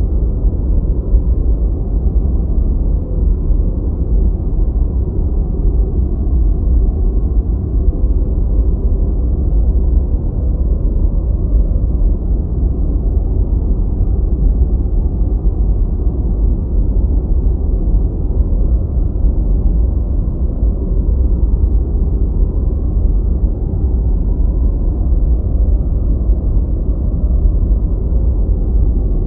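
Deep white noise: a steady, low, muffled hiss with its weight in the bass and nothing in the upper range, unchanging throughout.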